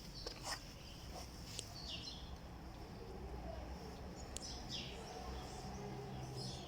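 Small birds chirping: short, high, downward-sliding chirps every couple of seconds over a low steady background rumble, with a few sharp clicks.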